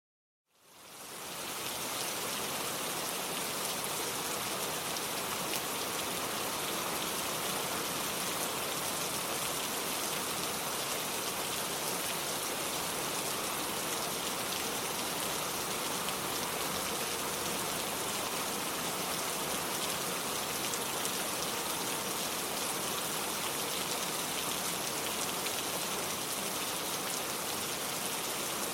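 Steady rain falling, fading in from silence over the first second or two and then holding an even, unbroken hiss.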